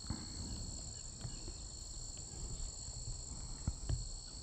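Steady high-pitched trilling of an insect chorus, over low rumbling noise and a few sharp clicks, the loudest about three and a half seconds in.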